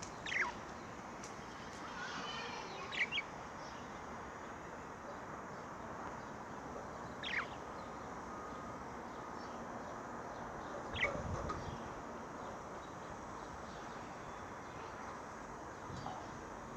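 Budgerigars giving a few short, separate chirps that sweep downward in pitch, about five in all, over a steady background hiss.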